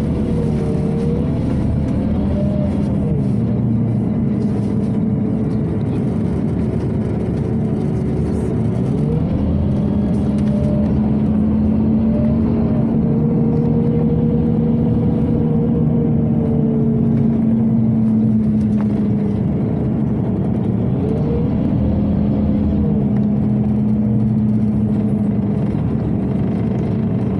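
Scania OmniCity city bus heard from inside while under way: the diesel engine's note rises and falls several times as the bus accelerates, shifts and eases off, over a steady rumble and the blow of the ventilation.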